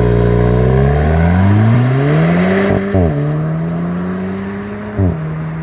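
VW Golf GTI TCR's 2.0-litre turbocharged four-cylinder accelerating, its pitch rising steadily, then two quick dual-clutch upshifts about three and five seconds in, each with a short sharp blip as the revs drop. The engine then pulls on at a steady pitch and grows fainter.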